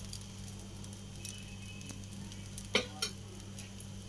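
A dosa sizzling on a hot cast-iron tawa, with scattered faint crackles. There is one sharp tap about two-thirds of the way through.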